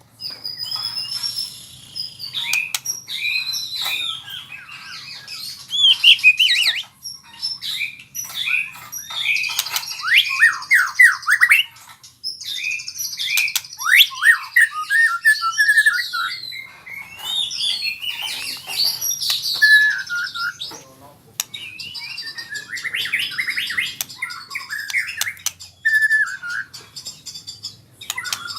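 White-rumped shama (murai batu) singing a long, varied song of whistles, rapid sweeping notes and chattering trills in runs broken by short pauses. It is a bird practising its continuous rolling song (ngerol).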